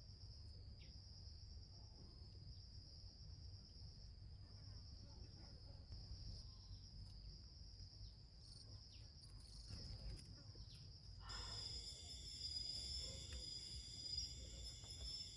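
Insects chirring: a steady, high cricket-like trill over a faint low rumble, with a few light ticks. About two-thirds of the way in it switches abruptly to a louder insect drone at several pitches at once.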